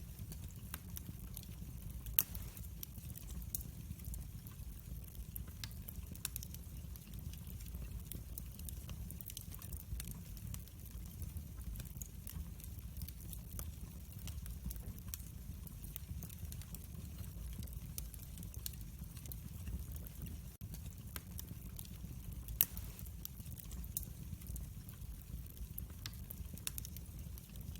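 Wood fire crackling in a fireplace: a steady low rumble with scattered sharp crackles throughout, and two louder pops, one about two seconds in and one about three-quarters of the way through.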